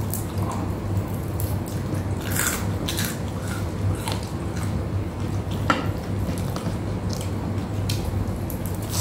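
Close-miked eating of crispy deep-fried tilapia by hand: chewing, wet mouth sounds and small sharp clicks, the sharpest a little before six seconds in, over a steady low hum.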